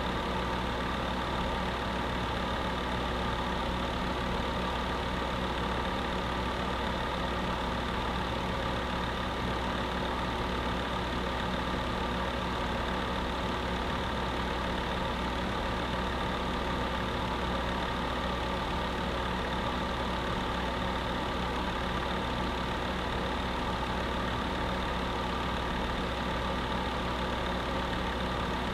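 Space heater running steadily, a constant whir with a low hum.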